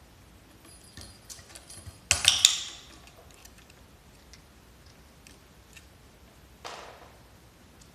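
Small hard objects clattering and clinking, with faint scattered ticks between. A loud rattle comes about two seconds in, and a shorter, softer one near the end.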